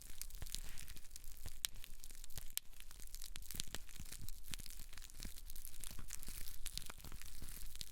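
Close-miked hair and scalp being worked by hand or brush, a dense, uneven crackle of many small clicks and rustles.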